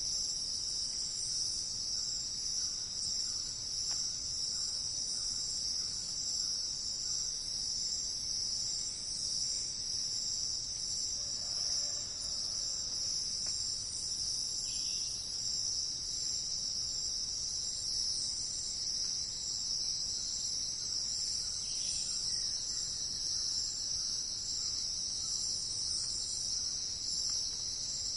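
Steady, continuous high-pitched chorus of crickets or similar insects trilling without a break.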